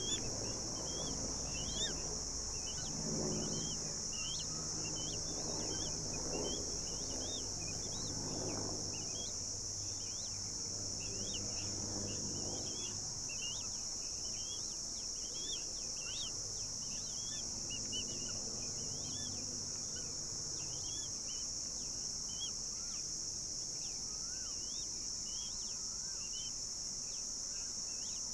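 Small birds giving short, quick chirps again and again, two or three a second, over a steady high insect drone.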